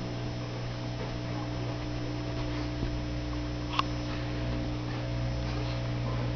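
Steady low electrical hum, with a single short click about four seconds in.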